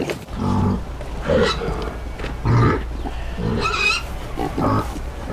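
Domestic pig oinking in a series of short calls, about one a second, with one higher-pitched call a little before four seconds in.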